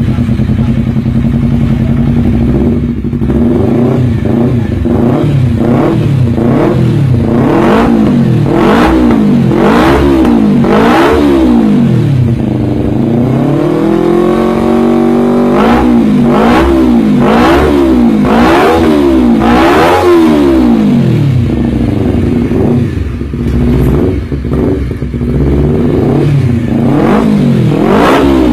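Honda CBR250RR motorcycle engine and exhaust being revved in quick repeated blips, about one a second. About halfway through the revs fall and rise once more slowly, then the quick blips resume.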